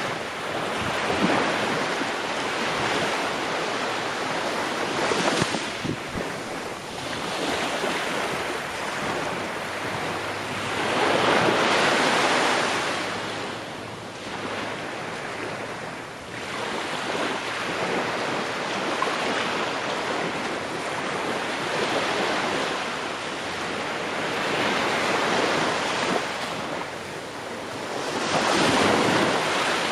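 Ocean waves breaking and washing on a shore, the surf swelling and ebbing every few seconds, with a louder break about twelve seconds in and another near the end.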